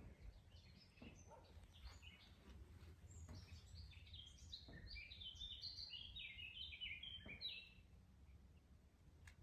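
Songbirds chirping faintly: a string of short high notes that thickens into a rapid twittering run about halfway through, over a low steady rumble.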